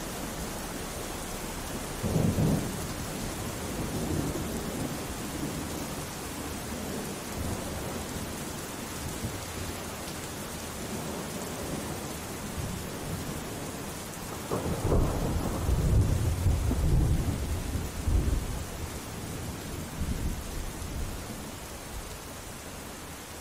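Steady rain with rolls of thunder: a short rumble about two seconds in and a longer, louder rumble about two-thirds of the way through.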